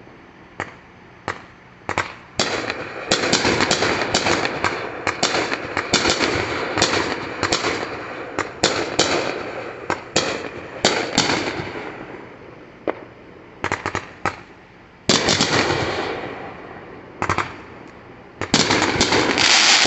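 Aerial fireworks going off one after another: sharp bangs and booms with dense runs of rapid crackling reports. They thin out to a few single bangs past the middle, then a loud burst comes about fifteen seconds in and a thick volley near the end.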